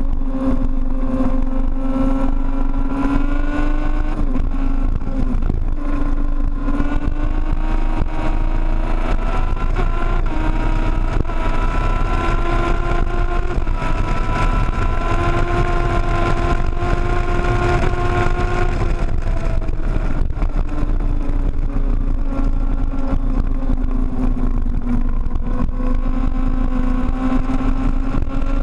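Sportbike engine running hard at highway speed, its pitch climbing about a third of the way in, holding high for several seconds, then dropping back, over a steady rush of wind.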